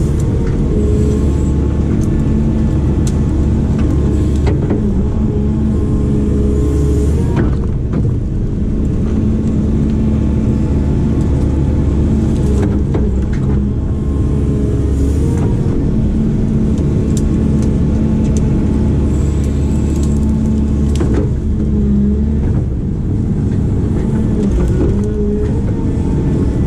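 Diesel engine of a heavy digging machine running steadily under working load, its pitch shifting slightly, with a few light knocks.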